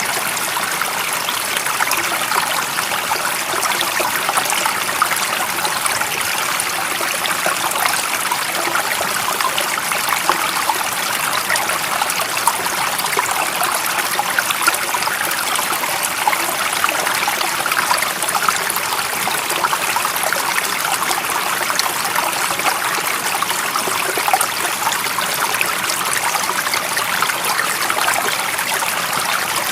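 Running water of a stream, a steady rushing with fine bubbling and trickling detail.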